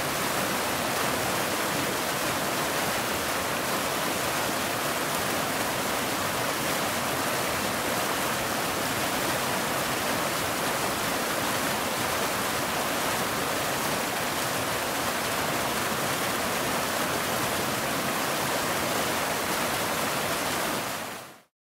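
Waterfall: a steady, even rush of falling water, fading out quickly near the end.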